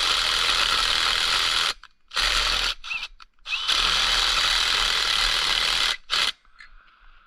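A handheld power tool run in bursts: a long one at the start, a short one, a long one in the middle and a brief one near the end, each a steady whir that stops suddenly.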